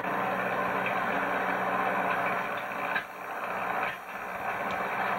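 Tractor engine running a snowblower, a steady mechanical drone that dips sharply twice, about three and four seconds in, and builds back up each time.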